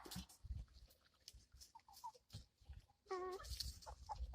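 Chickens clucking faintly: a few short soft calls about two seconds in, then a longer call just after three seconds, among scattered light ticks.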